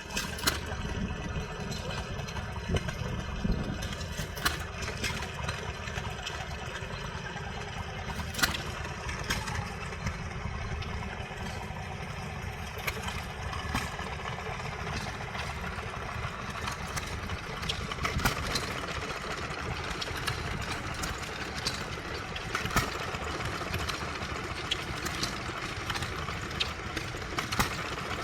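Vintage stationary engine running steadily with a low rumble, with occasional sharp clicks at irregular intervals.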